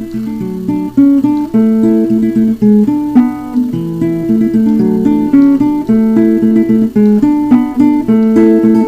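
Background music: an acoustic guitar picking a steady run of plucked notes.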